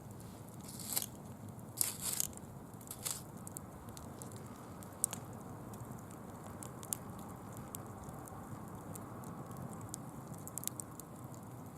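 Bonfire crackling and popping with dry fallen leaves burning, over a low steady rush. There are a few louder crinkling rustles in the first three seconds.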